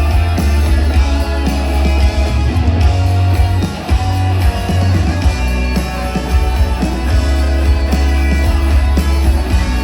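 Live rock band playing, with electric guitar over a heavy, booming bass, recorded from the crowd on a phone. Loudness dips briefly about four seconds in.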